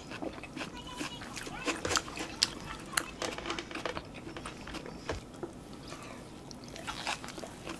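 Close-up chewing and lip-smacking of people eating fried tofu pockets stuffed with rice, with many short mouth clicks and smacks scattered throughout.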